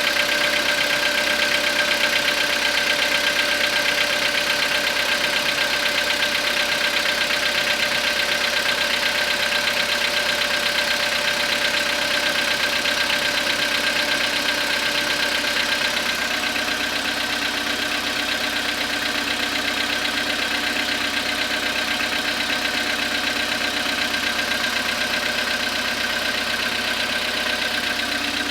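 Skoda Rapid's 1.6 CFNA petrol engine idling steadily in the first minute or so after a cold start at just below freezing, with the rapid knock of a cold CFNA engine. The sound eases slightly about halfway through.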